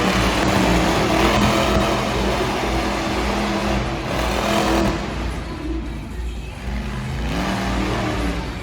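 Monster truck engines revving, their pitch rising and falling repeatedly. The revs ease off in the middle and climb again near the end.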